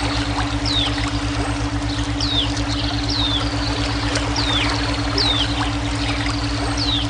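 Flowing water running steadily, with a bird's short high chirps that slide downward, about one a second. Under them a steady, evenly pulsing low hum: a brainwave tone track.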